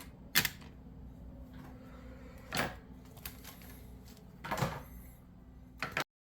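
Handling noises from unpacking a plastic-wrapped HO-scale model box car: about four short knocks and rustles, the last near the end, after which the sound cuts off abruptly to dead silence.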